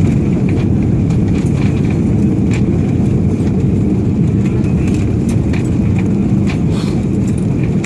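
Loud steady rumble inside a jet airliner's cabin as the aircraft brakes on the runway after landing, with a steady high whine over it.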